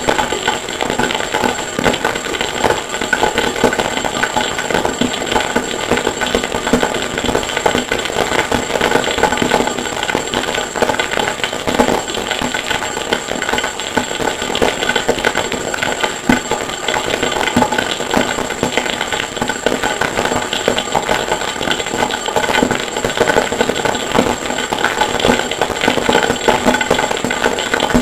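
Harsh noise: a dense, unbroken wall of crackling, rattling noise with a steady high whine, made from processed recordings of a forge.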